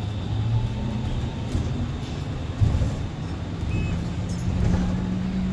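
Low, steady rumble of a motor vehicle engine running, with a single short knock a little before halfway.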